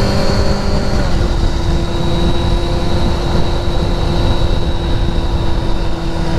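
Steady drone and rumble of a vehicle driving on a highway, engine hum and road noise together. The engine's tones drop a step in pitch about a second in.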